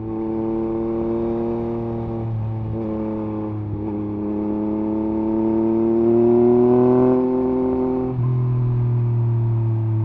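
Yamaha MT-09 SP's three-cylinder CP3 engine running through an Akrapovič exhaust with the dB killer removed, ridden under way. It holds steady revs, revs climb steadily for about three seconds past the middle, then drop sharply and settle lower as the throttle is eased or a gear changes.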